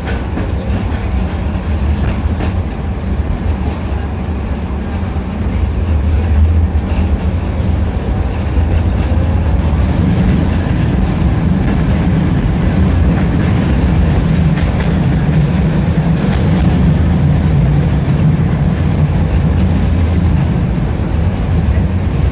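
Tram running along its rails, heard from inside the passenger cabin: a steady low rumble of the wheels and running gear, with the clatter of wheels over rail joints.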